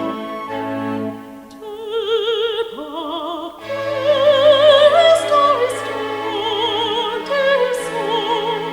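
Opera excerpt: a short instrumental passage, then about a second and a half in an operatic voice enters, singing with wide vibrato over orchestral accompaniment.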